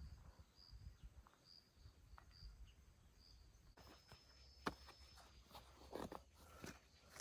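Near silence: faint outdoor ambience with a soft high chirp repeating about once a second for the first few seconds, then scattered faint clicks and knocks.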